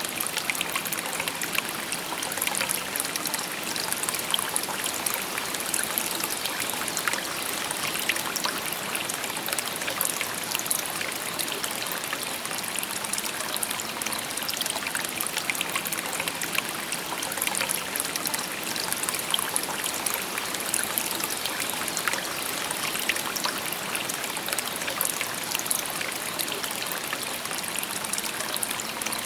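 A shallow babbling brook: water steadily rushing and trickling, with many small splashes and droplets.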